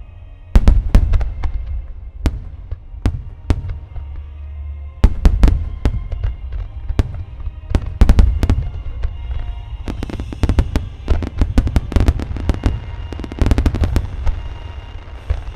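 Large aerial fireworks shells bursting in quick succession, sharp bangs over a deep rolling boom that hangs between them, the bursts coming thickest in the second half.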